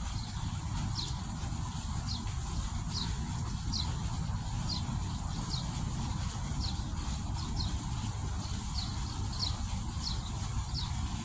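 A bird repeating short, falling chirps, about one or two a second, over a steady low rushing noise.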